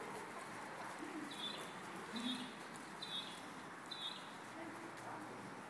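A small bird chirping: four short high calls about a second apart over a steady background hiss, with a few faint low notes underneath.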